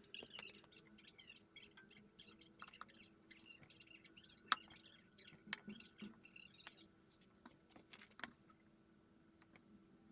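Quiet crackling and clicking for about seven seconds, then it goes quieter; a faint steady hum runs underneath.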